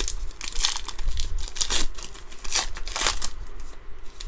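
Trading cards being handled and sorted by hand: about four short crinkling, sliding rustles.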